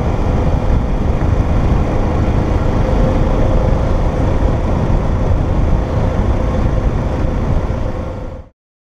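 Motorcycle riding at road speed: heavy wind rush on the microphone over engine and road noise, with a steady drone underneath. It cuts off abruptly about eight and a half seconds in.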